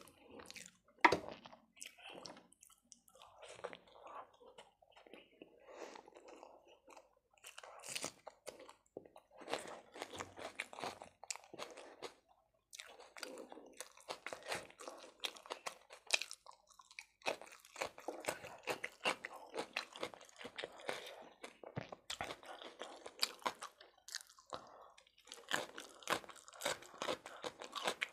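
Close-up chewing and crunching of toasted brown bread eaten with chicken curry, with wet mouth clicks in irregular bursts. There is a sharp, loud crunch about a second in, and a brief lull a little before halfway.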